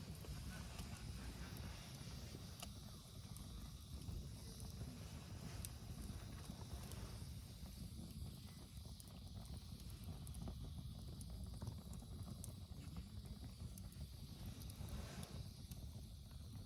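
Wood fire burning in a Coleman fire disk, crackling with scattered faint pops over a steady low rumble.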